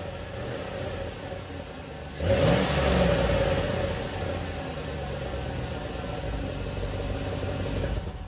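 GM 5.3 L Vortec V8 running with its exhaust Y-pipe cutout open, uncorked ahead of the mufflers. It runs steadily, is revved sharply about two seconds in with a rising pitch, then eases back to a steady run.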